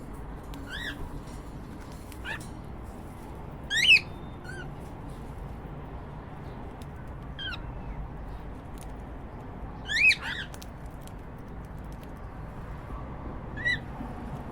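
Cockatiels calling: short whistled chirps that sweep up and down, spaced a few seconds apart, the loudest about 4 seconds in and a double call about 10 seconds in.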